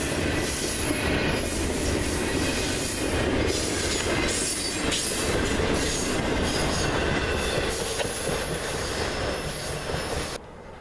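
Double-stack intermodal freight cars rolling past close by: a steady, loud rumble of steel wheels on the rails with clattering knocks. The sound cuts off suddenly near the end.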